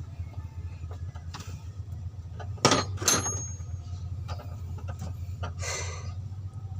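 Two sharp metallic clanks about half a second apart, the second ringing briefly, as tools and parts are handled while fitting a water pump. A steady low engine-like hum runs underneath, and a short hiss comes near the end.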